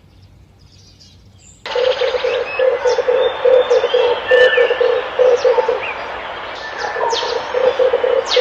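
Red turtle dove cooing: after a quiet start, about two seconds in, a run of rapid, pulsed low coos begins and repeats, with thin chirps from other birds over it.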